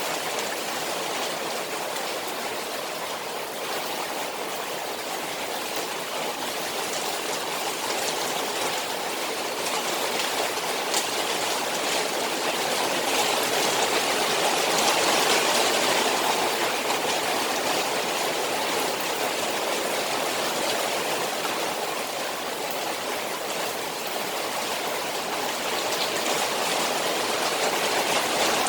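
Rain falling on a koi pond: a steady hiss of water that swells a little about halfway through and again near the end.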